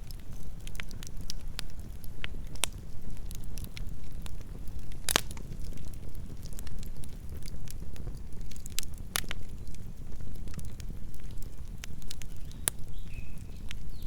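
Wood campfire burning, crackling and popping in irregular sharp snaps over a low steady rumble, with louder pops about 5 and 9 seconds in.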